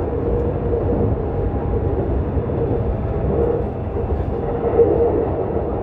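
Keisei 3700 series electric train running at steady speed, heard inside the car: a continuous rumble of wheels on the rails with a steady hum.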